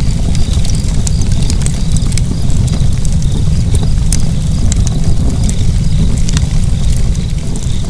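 Fire burning, with a steady low roar of flames and scattered sharp crackles and pops throughout.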